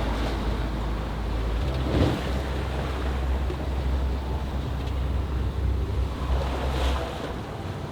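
Wind buffeting the microphone over water rushing and sloshing along a small sailing yacht's hull, with a heavy low rumble throughout. Two louder surges come about two seconds in and near the end.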